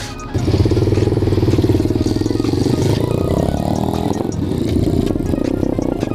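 Small single-cylinder pit bike engine comes in suddenly and runs, its pitch lifting a little and dropping back around the middle.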